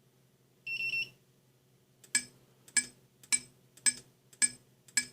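Electronic beeps from a motor's controller, a sign that the motor is not starting: one steady high beep lasting under half a second, then six short sharp chirps about half a second apart, over a faint low hum.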